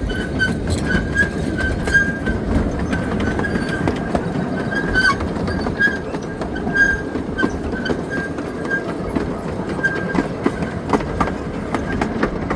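Park train ride running along its track, heard from aboard: a steady rumble of the moving cars with a thin, high squeal that comes and goes.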